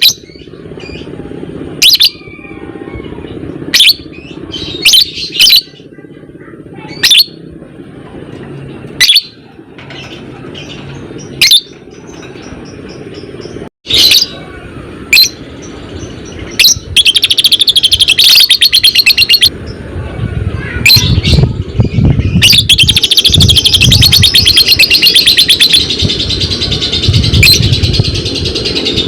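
Lovebird calling: sharp single shrieks every second or two, then past the halfway point a long, fast, rattling chatter (the 'ngekek' of a lovebird in full song), which breaks off for a few seconds and starts again.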